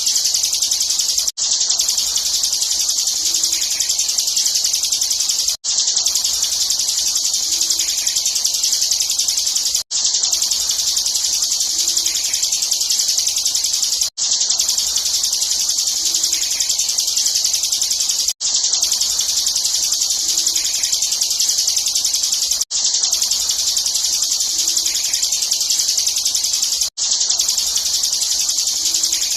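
Bar-winged prinia (ciblek) singing a rapid, non-stop high trill, the 'ngebren' song used as a training recording for contest birds. The recording is looped, with a brief cut about every four seconds.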